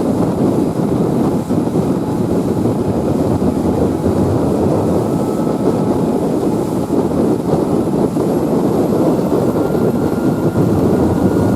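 Steady loud roar of a fast boat running at about 30 knots, its engine noise blended with wind and rushing water. A faint whine, rising slightly in pitch, comes in during the second half.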